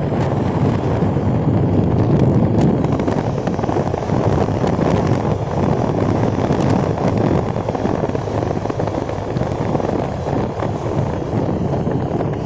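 A car on the move, its engine and road noise a steady rumble, with wind buffeting the microphone.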